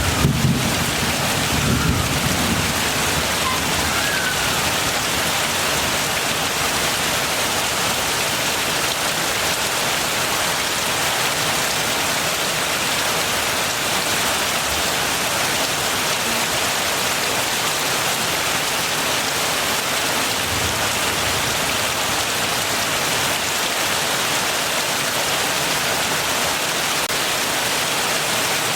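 Steady heavy rain falling, with a low rumble of thunder dying away in the first couple of seconds.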